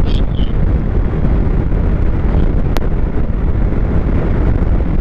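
Strong wind buffeting the microphone: a loud, steady low rumble, with one short click about three seconds in.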